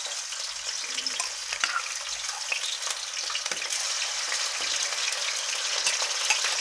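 Raw chicken pieces sizzling as they are spooned into hot oil in a kadhai: a steady frying hiss with scattered crackles.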